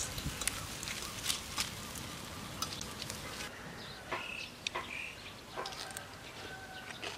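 Outdoor rural ambience with scattered soft clicks, then, from about four seconds in, a few short high bird chirps.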